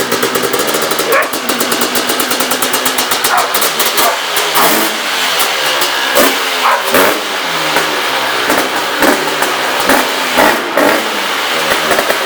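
Dirt bike engine revving, its pitch climbing and dropping several times as the throttle is opened and closed, with brief sharp cracks in between.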